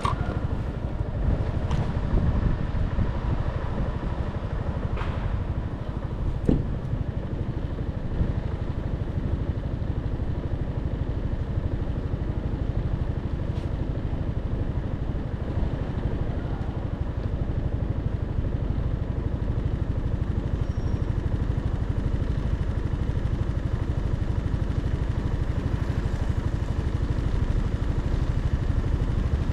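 Motorcycle engine running steadily with an even low pulsing, with a few brief clicks in the first several seconds.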